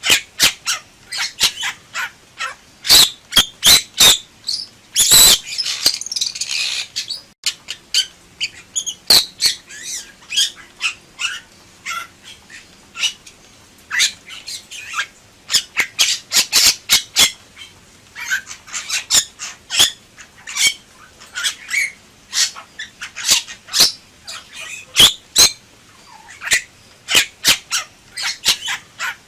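Bali myna calling in full song: a rapid, irregular series of loud, sharp call notes and harsh squawks, with a longer harsh call about five seconds in.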